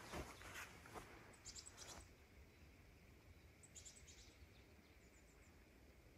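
Faint birdsong over near silence: short, high chirping trills, about three times.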